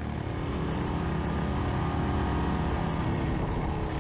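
Suzuki DRZ400S single-cylinder four-stroke engine running under way, picking up a little over the first second and then holding steady.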